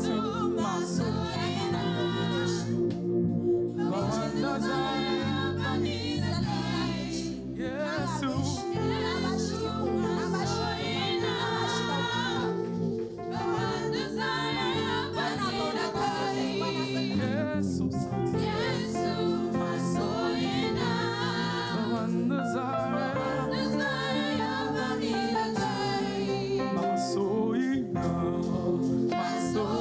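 Gospel praise music: a choir and congregation singing a Hausa worship song over band accompaniment with a steady bass.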